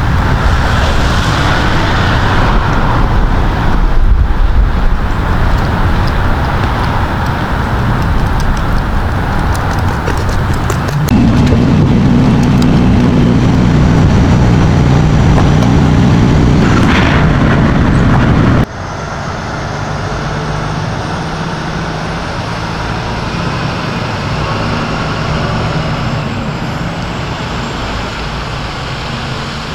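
A truck running steadily with wind on the microphone; about two-thirds through the sound cuts abruptly to a quieter, steady engine hum.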